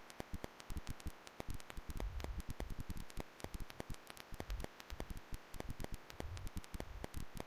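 Crackling static with many irregular clicks. A low rumble comes in about two seconds in and again near the end.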